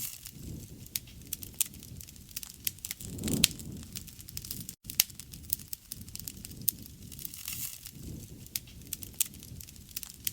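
Wood fire crackling, with irregular sharp pops over a low rush of flame that swells briefly a few times. The sound cuts out for an instant about halfway through.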